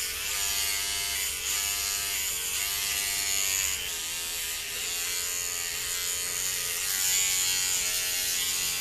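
Battery-powered hair clippers buzzing steadily as they shave hair from a goat kid's head. Their pitch wavers slightly. The owner says the batteries were not well charged.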